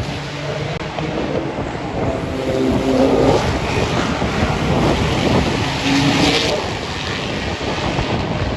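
Race car engine passing at speed: the note grows louder to a peak in the middle and then fades.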